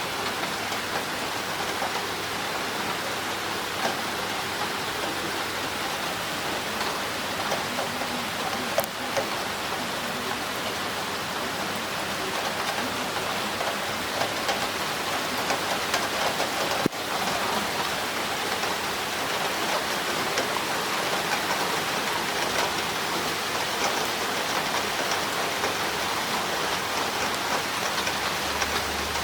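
Heavy rain falling steadily, with rainwater pouring through a drainpipe. Two brief sharp clicks stand out in the steady rush.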